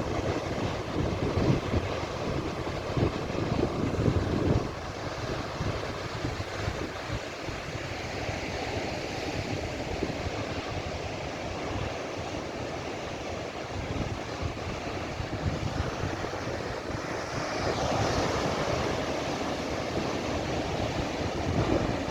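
Sea waves washing and breaking below, with wind buffeting the microphone. The buffeting is heaviest in the first four seconds or so, and a wave's wash swells up about 17 seconds in.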